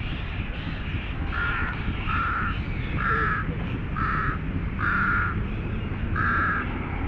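A bird calling six times at a steady pitch, about once a second, each call short and level, over a steady low background rumble.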